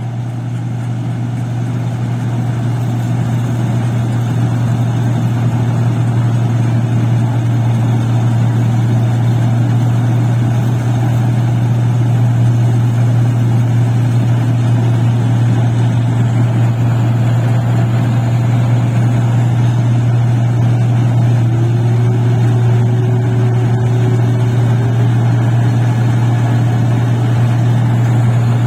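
Engine of a paddy (rice) machine running steadily at a constant speed, a loud, even low hum.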